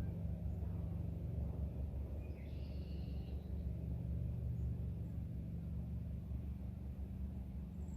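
Outdoor ambience: a steady low rumble, with a short high chirping sound about two and a half seconds in.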